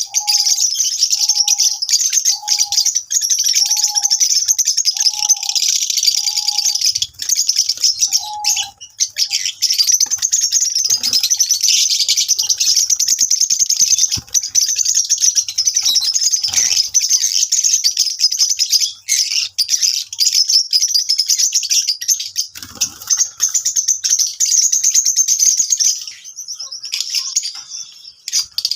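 A group of small pet parrots chattering and chirping without a break in dense, high twitters. A lower short note repeats about every second and a half over the first nine seconds or so.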